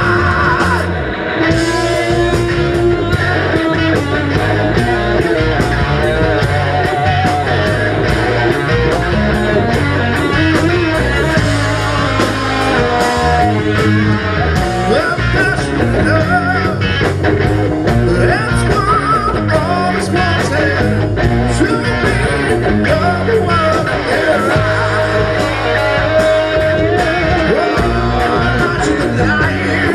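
Live rock band playing a loud passage with no words: guitar over bass and a steady drumbeat.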